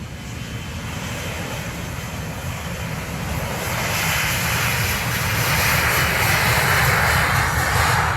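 Boeing 737-300's CFM56-3 turbofan engines at takeoff power, a jet roar with a deep rumble growing steadily louder and peaking near the end.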